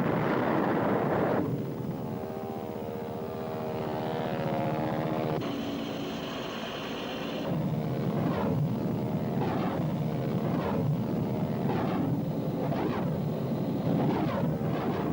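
Bell UH-1 Huey helicopter in flight, its turbine and rotor running steadily, after a loud rushing noise in the first second and a half. A high whine rises over it for about two seconds midway, and a rhythmic rotor chop runs through the second half.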